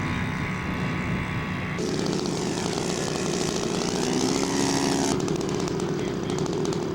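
Radio-controlled scale model airplane's engine running steadily in flight. The sound changes abruptly about two seconds in and again about five seconds in.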